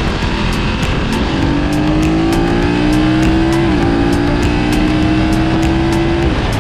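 Motorcycle engine accelerating, its pitch climbing steadily, dropping once at an upshift about halfway through, then climbing again before the throttle comes off near the end.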